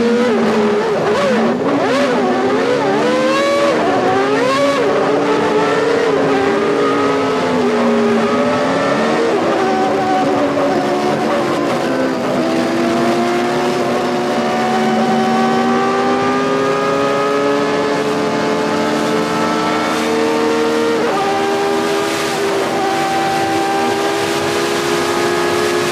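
Formula One car engines at racing speed, their pitch climbing through the gears and dropping on the shifts, with a sudden step in pitch about 21 seconds in.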